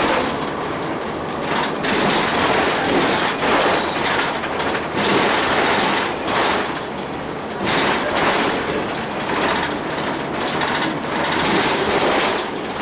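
2002 Blue Bird CS transit bus under way, heard from inside the cabin: a loud rattling clatter with road noise that swells and eases every second or two.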